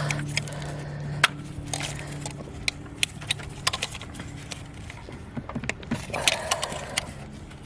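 Hands working an ignition coil pack loose from the top of a BMW E90's engine: a string of sharp plastic clicks and knocks, then a scraping rub about six seconds in as the coil is worked free.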